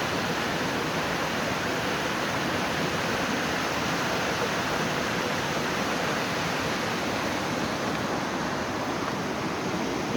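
Mountain stream water rushing steadily over rocks, an unbroken even rush of water.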